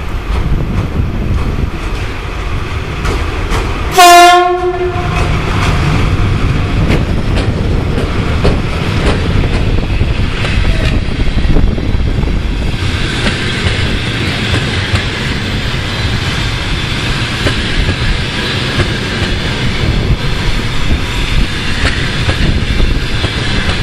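EP1M electric locomotive giving one short, very loud horn blast about four seconds in as its passenger train arrives. After that the coaches roll past with a steady low wheel rumble and light clicking over rail joints. A higher rushing noise joins about halfway through.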